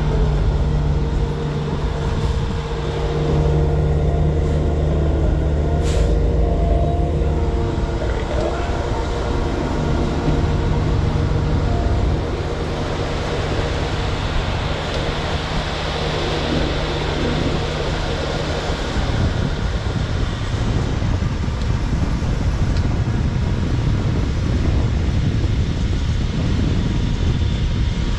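Heavy diesel machinery engine running continuously, with steady low hum tones for the first dozen seconds, then turning rougher and noisier.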